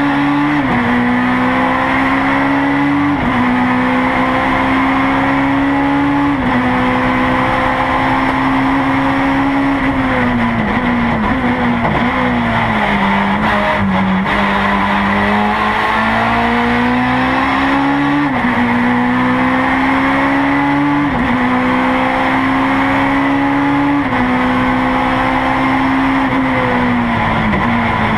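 Honda S2000 race car's engine heard from inside the cockpit at full pace: it pulls hard, with a sharp upshift every three seconds or so. About ten seconds in it winds down through downshifts under braking, then climbs again through two more upshifts, and slows with downshifts near the end.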